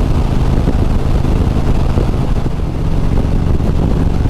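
Harley-Davidson Road Glide's V-twin engine running steadily at highway cruising speed, over an even rush of wind and road noise.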